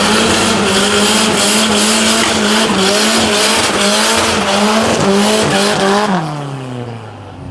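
Car engine held at high revs during a burnout, with the spinning tyres squealing and hissing. About six seconds in the engine lets off and the revs fall away.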